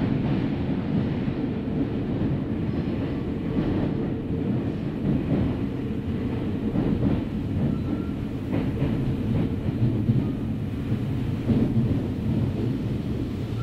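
Kintetsu 9030 series electric train running between stations, heard from inside the passenger car: a steady rumble of wheels on the rails, with faint clicks now and then.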